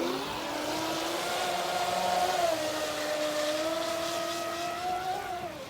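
Brushless electric motor of a Pro Boat Geico 36-inch RC catamaran running on a 4S battery, heard as a steady whine. The whine rises slightly at first, dips a little partway through and falls off near the end.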